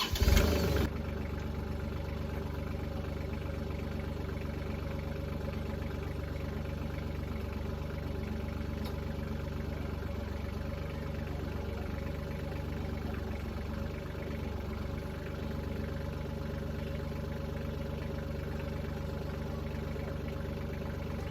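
Kubota L-series diesel tractor engine starting up: a brief louder burst as it catches, then idling steadily.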